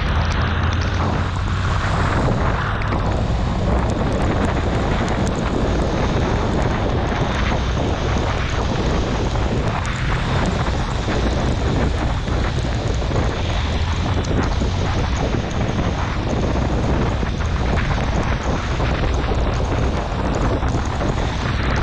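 Honda CB650R inline-four engine running under way in the rain, nearly buried by heavy, steady wind rush on the rider's microphone and the hiss of tyres on wet road.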